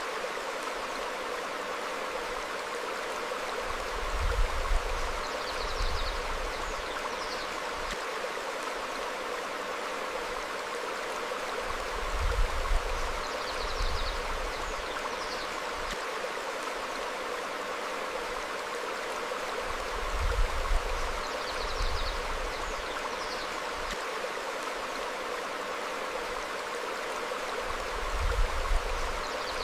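Stream flowing steadily over rocks, a continuous rushing of water. Faint short bird chirps and brief low rumbles come back together about every eight seconds.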